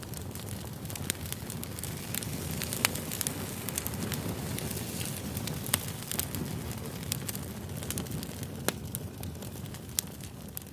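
Campfire crackling: a steady low rush of flames with frequent sharp pops and snaps.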